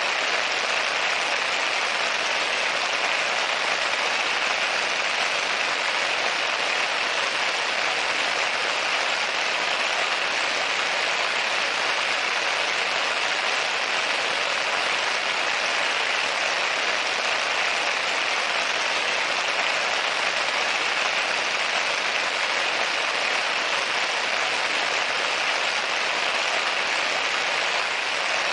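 Steady rain falling on a window: a dense, even hiss that holds at one level throughout.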